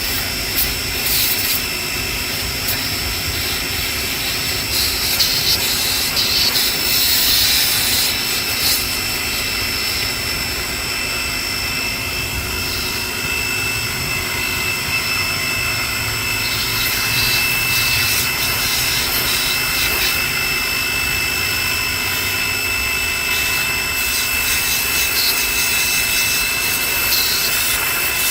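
Pressure washer running steadily: a constant high whine with a hissing water spray that grows louder at moments.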